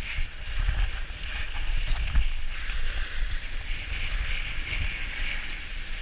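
Wind buffeting the microphone in gusts, over a steady rushing hiss of sliding on snow.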